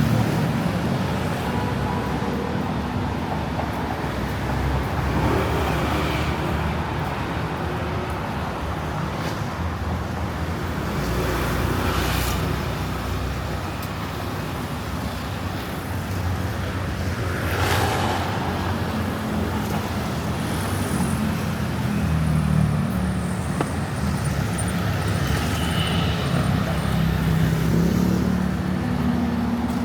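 Street traffic: a steady rumble of car and motorbike engines and tyre noise, with vehicles passing close by now and then, loudest around twelve and eighteen seconds in.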